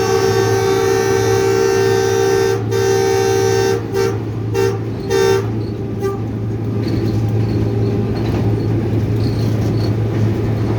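Diesel locomotive's air horn sounding: one long blast that breaks off about two and a half seconds in, then three short toots. Under it the locomotive's running drone goes on steadily.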